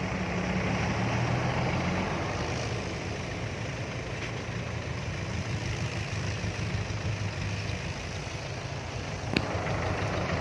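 Diesel dump truck engine running, a steady low drone that is strongest in the first couple of seconds, with one sharp click near the end.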